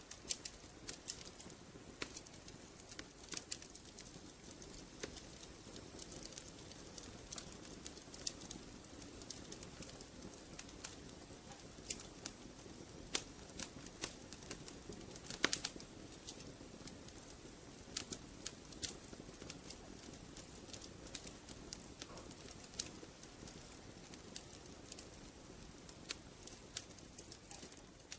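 Wood fire crackling in a fireplace: irregular sharp pops and snaps over a soft steady rush of the flames.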